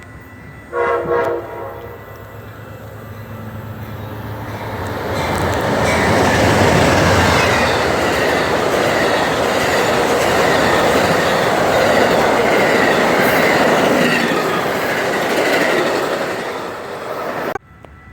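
Amtrak train sounding one short horn blast, then approaching and passing close by with a loud, steady rolling rumble that fades. The sound cuts off abruptly near the end.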